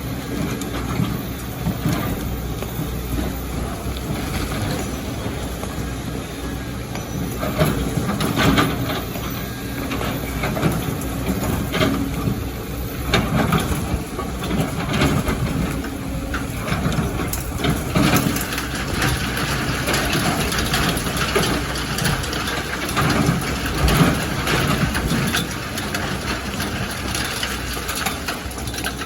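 Excavator's diesel engine running under load, with irregular crunching and knocking of sand and rock as it digs.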